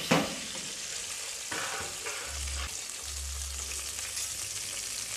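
Chili-tomato sambal sizzling steadily as it fries in a pan, stirred with a slotted spatula, with a few scrapes of the spatula in the first couple of seconds.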